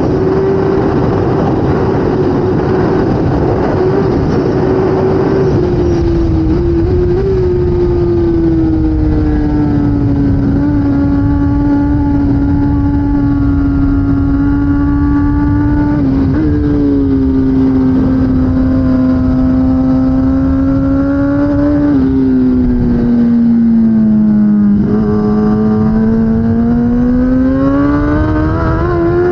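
2016 Kawasaki ZX10R superbike's inline-four engine running hard. Its note slides down and holds through the middle, sinks lowest about 25 seconds in, then rises steadily as the bike accelerates near the end, over a rushing noise heaviest in the first few seconds.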